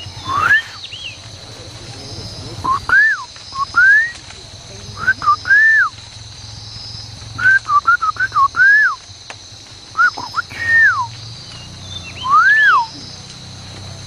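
Bird calls: clear whistled notes, each rising and then falling, given singly and in quick runs of two to four, over a steady low hum.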